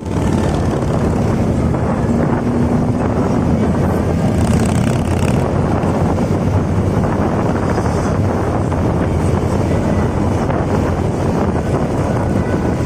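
Harley-Davidson Road King's V-twin engine running steadily on the move, with wind buffeting the microphone.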